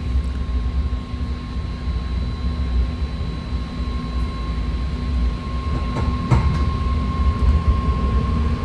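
BART train running out of a station, heard from inside the car: a steady low rumble of wheels on rail with a steady high electric whine over it, and a couple of short knocks about six seconds in.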